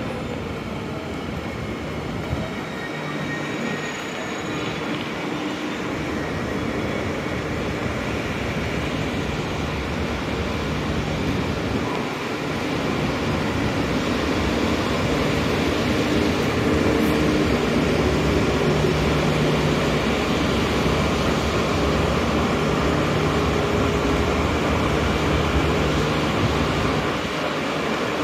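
Electric limited-express train pulling out of a station right alongside: a steady rumble of wheels with a motor hum that grows louder as the train gathers speed, easing off near the end as the last car goes by.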